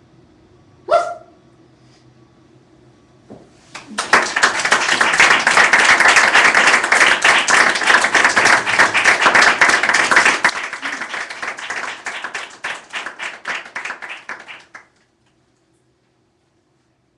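A single short rising yelp-like sound about a second in, then audience applause starting around four seconds, thinning after about ten seconds and cutting off abruptly near fifteen seconds.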